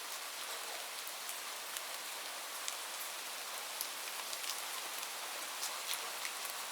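Steady rain falling, an even hiss with many scattered individual drops ticking sharply on a surface.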